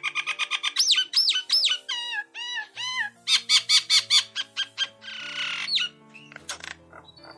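A bird chirping and calling in quick runs of short notes, some swooping up and down in pitch, with a harsh raspy call about five seconds in, over soft background music with long held notes.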